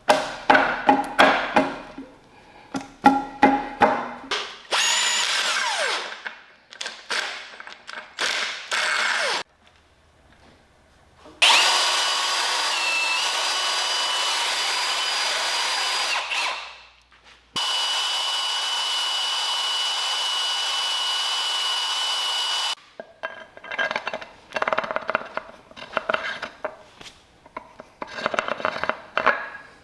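Metal hardware and hand tools clicking and clinking on an outboard motor bracket, broken in the middle by two runs of a power tool of about five seconds each, the first winding down at its end.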